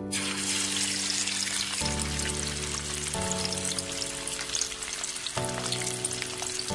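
Chapli kabab, a spiced minced-meat patty topped with egg, frying in hot oil with a dense, steady sizzle and crackle. Soft background music plays underneath.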